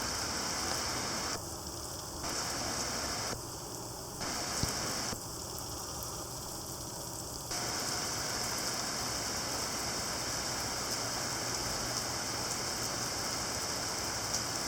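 Heavy rain pouring down in a steady hiss, the sound of a solid downpour. Its level dips briefly three times in the first half.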